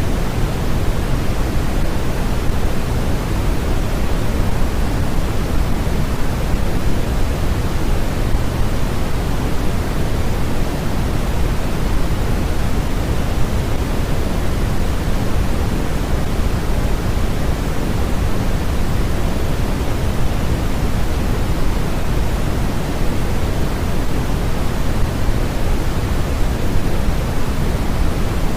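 Steady, unbroken synthetic noise played as a sleep and study aid. It is weighted toward the low end, so it sounds deeper and softer than pure white noise, like pink noise.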